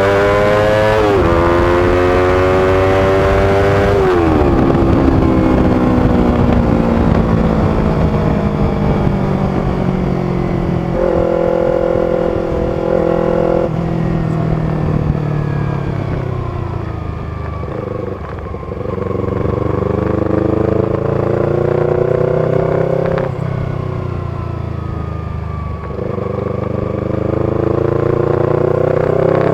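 Yamaha R25's 250 cc parallel-twin engine through an aftermarket B-Pro exhaust under way: it climbs in pitch with a couple of quick upshifts at the start, settles, winds down as the bike slows in the middle, then pulls up through the gears again with another shift near the end.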